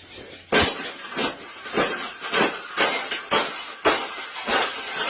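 A rapid, regular series of sharp knocks or clanks, about two a second, starting about half a second in, with roughly nine strikes.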